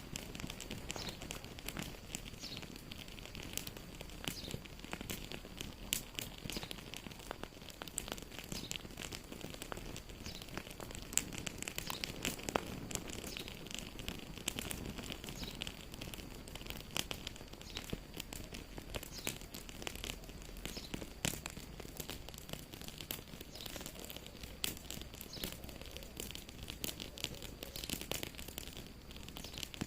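Wood fire crackling in a fireplace: a steady soft hiss with many irregular sharp pops and snaps.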